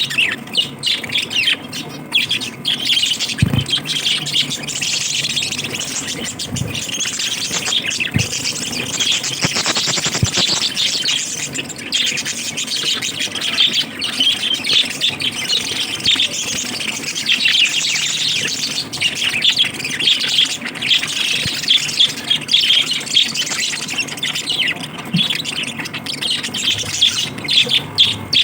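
Pet lovebirds chattering continuously in high chirps and squawks, with a few faint low knocks.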